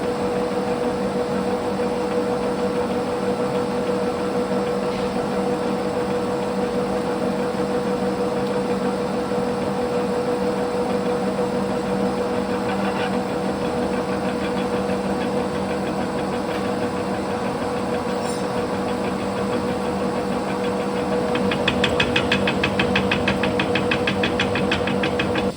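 Large metal lathe running steadily with a steady hum while a carbide-insert turning tool takes a cut along a steel rod. Near the end a rapid, even ticking joins in.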